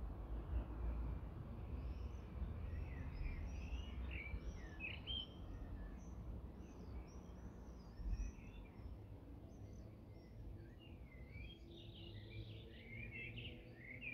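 Songbirds chirping and singing, many short calls, busiest near the start and again near the end, over a steady low background noise.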